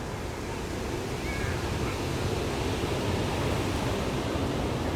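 Ocean surf washing onto the beach, a steady rushing that swells a little about a second and a half in. A faint short high call rises and falls about a second in.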